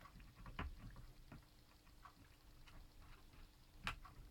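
Faint, scattered clicks and taps of plastic laptop parts being handled and snapped into place, the sharpest near the end.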